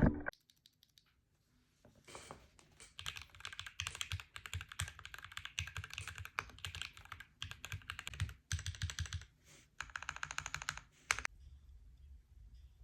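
Typing on a BM43A 40% custom mechanical keyboard: fast runs of keystroke clacks with brief pauses, starting about two seconds in.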